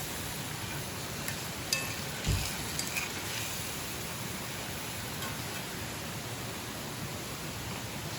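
Steady hiss of running or falling water, with a few light clicks and one soft low thump about two seconds in.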